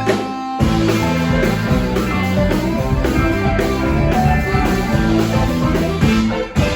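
Live rock band playing, with guitar to the fore over a full band; there is a sharp accent at the start and a brief break just before the end.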